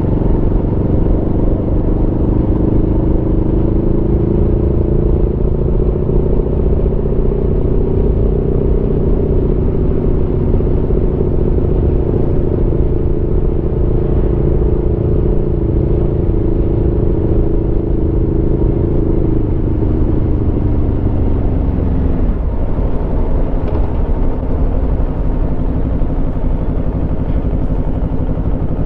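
Aprilia Tuono V4 motorcycle's V4 engine under way, its note rising gently, holding steady, then falling to a lower steady note about twenty seconds in as the revs drop.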